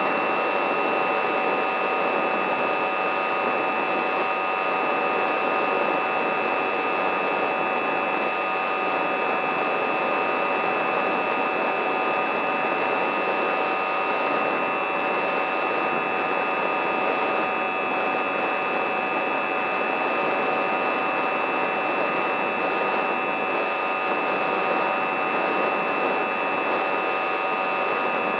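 Radio-control model's electric motor running at a steady speed: a constant whine over a rushing noise, its pitch unchanging throughout.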